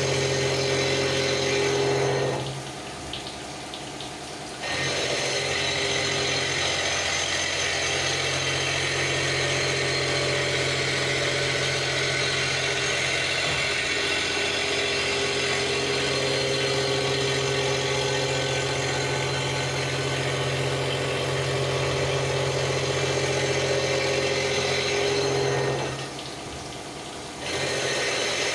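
CNC milling machine cutting a cast pump volute: a steady machine hum under a continuous hiss of cutting. The sound twice drops quieter for a second or two, once a couple of seconds in and again near the end.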